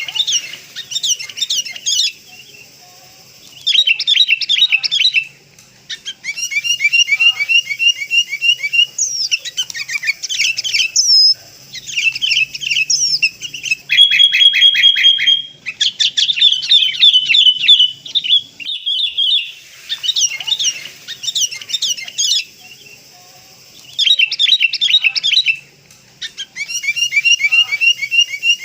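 Sooty-headed bulbul (kutilang) calls played as a bird-trapping lure: bursts of rapid, high chirping notes, each lasting one to a few seconds, with short pauses between them.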